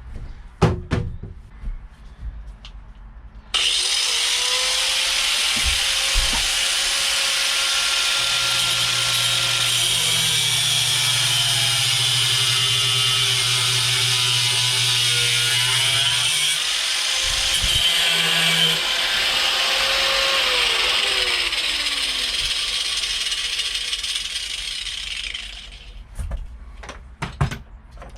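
Angle grinder cutting metal for about twenty seconds, most likely cutting off the boat seat's seized or broken mounting bolts. It starts abruptly a few seconds in, and its whine falls in pitch near the end. A few knocks come before and after.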